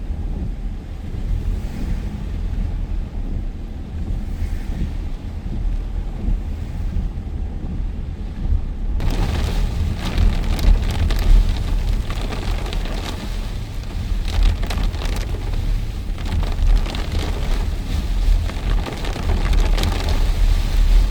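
Heavy storm rain with a steady deep rumble underneath. About nine seconds in, the rain suddenly grows much louder into a dense, crackling patter of drops.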